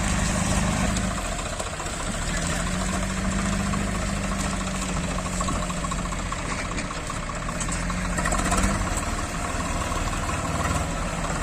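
Heavy diesel engine running steadily at low revs, its hum dipping briefly about a second in and then holding steady again.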